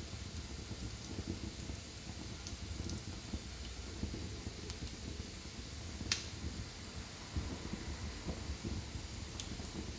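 Wood fire burning in a fireplace: a steady low rumble with scattered soft crackles and one sharp pop about six seconds in.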